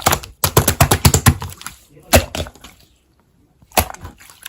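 Slime being squished and worked by hand: a quick run of sticky wet pops and clicks, a single loud pop about two seconds in, a short pause, then a few more pops near the end.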